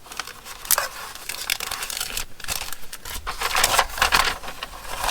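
Plastic packaging and paper crinkling and rustling as they are handled, with many sharp crackles, louder in the second half.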